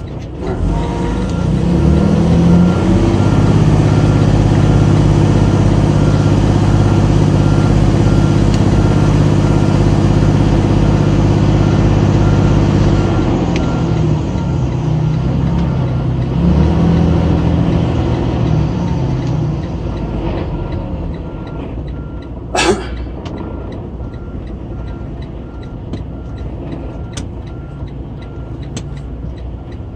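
Tractor-trailer's diesel engine revving up and holding high revs for about ten seconds, then easing back down toward idle, with a steady repeating beep of a reversing alarm throughout. A short, sharp air hiss comes near the end, typical of the air brakes.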